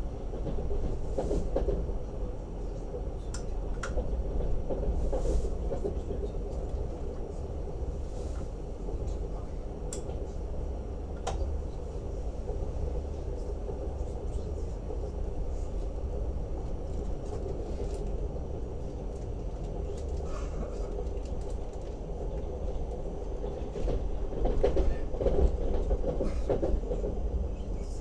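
Wheels of a Lastochka (Siemens Desiro RUS) electric train running on the rails: a steady low rumble with scattered sharp clicks, swelling louder in the first few seconds and again near the end.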